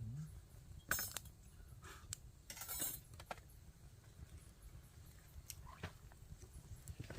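A few scattered sharp clicks and light clinks, with a short rustling burst about two and a half seconds in, over a low background rumble.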